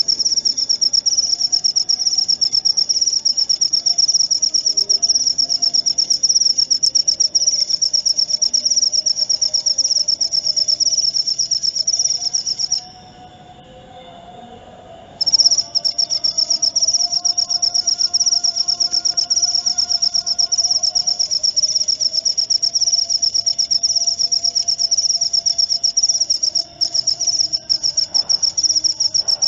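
Jaliteng field cricket chirping: a loud, continuous, rapid high-pitched trill that stops for about two seconds in the middle and then resumes. Faint lower whistling tones sit underneath.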